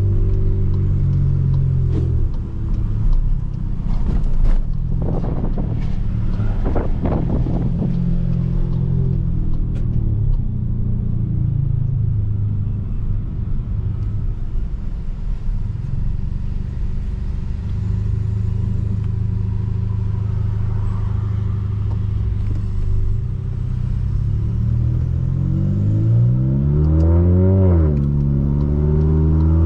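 Volkswagen Polo GTS Stage 2's 1.4 TSI turbocharged four-cylinder engine and sport exhaust while driving, running steadily at low revs. A few sharp knocks in the first several seconds, and two quick revs up and back down near the end.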